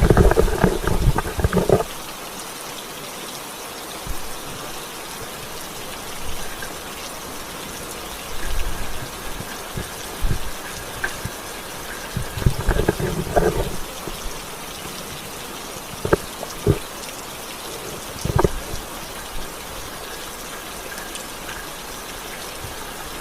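Steady rain falling, an even hiss throughout. Louder handling or footstep thumps and rustles come at the very start and again about halfway through, with a few sharp knocks a little later.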